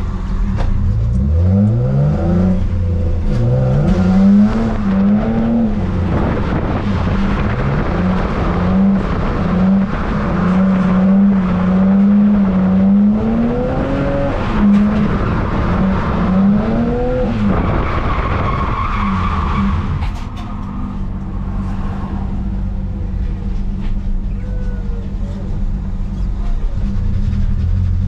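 Car engine revving hard through a drift, its pitch sweeping up, holding high and dropping back several times. About two-thirds of the way in it settles to a steadier, lower running note.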